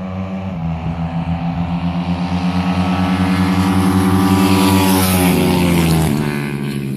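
Four-stroke carbureted drag-racing motorcycle engines running hard at a steady pitch, growing louder over the first four seconds, then dropping in pitch in two steps near the end.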